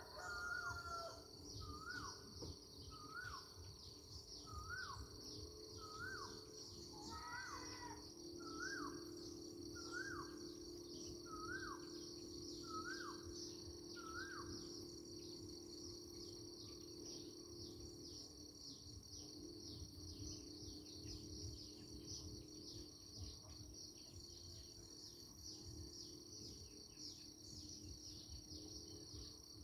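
Countryside ambience: a steady high insect chorus throughout. A bird repeats a short rising call about every second and a half for the first half, with one longer call a little before the middle. A low steady hum comes in partway through and fades out.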